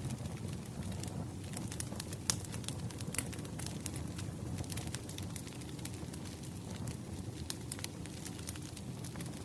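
Wood fire crackling: a steady low rumble with many irregular sharp pops and snaps.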